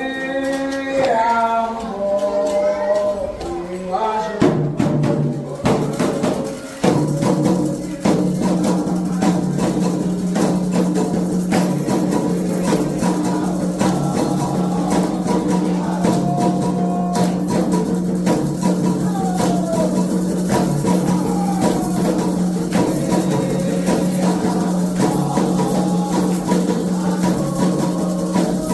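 Candomblé ritual music: drums with a rattle and bell-like percussion in a fast steady rhythm, with singing. A single voice sliding in pitch opens, and from about five seconds in a steady held tone sits under the percussion.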